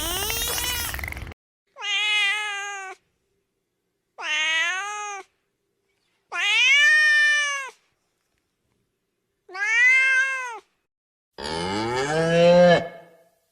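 Domestic cat meowing four times, each meow about a second long and separated by silence. Near the end a cow moos once. Another sound cuts off about a second in.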